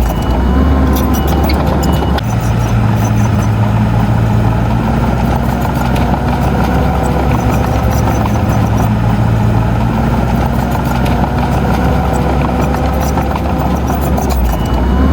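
Heavy diesel earthmoving machine engine running steadily, its tone shifting about two seconds in.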